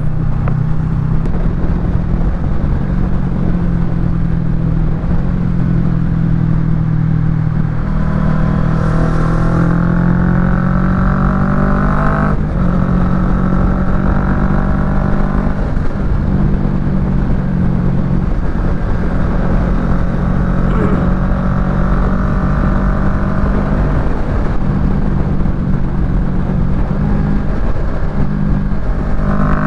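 Kawasaki Ninja 650's parallel-twin engine running through a Yoshimura Alpha full exhaust while riding. It mostly holds a steady note, then the revs climb from about eight seconds in and drop sharply at a gear change about twelve seconds in, with further brief pulls later and the revs rising again near the end.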